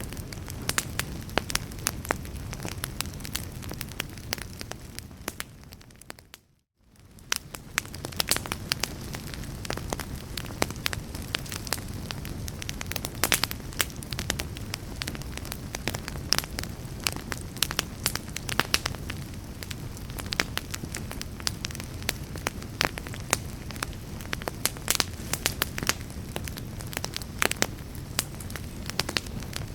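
Fireplace fire crackling and popping over a steady low rumble of flames. About six seconds in the sound fades briefly to near silence and fades back in, like a loop seam in the recording.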